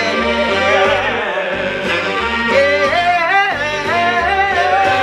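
Music: a solo voice singing long, sliding phrases over accompaniment with a pulsing bass line, holding one note for about a second near the end.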